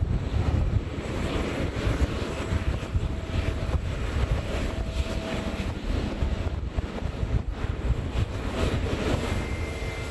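Jet airliner's engines running with a loud, steady rumble, a faint whine coming and going above it and a higher thin whine setting in near the end.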